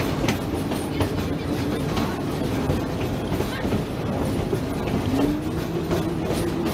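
Steam-hauled passenger train heard from aboard a coach: steady running noise of wheels on rails, with irregular clicks as the wheels pass over rail joints.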